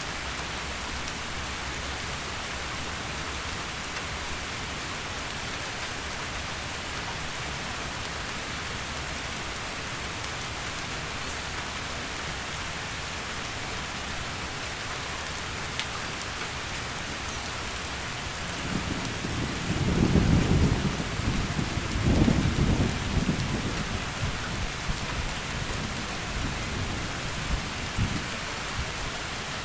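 Heavy rain falling steadily, with a roll of thunder rumbling in about two-thirds of the way through, loudest at two peaks a couple of seconds apart, then fading over several seconds.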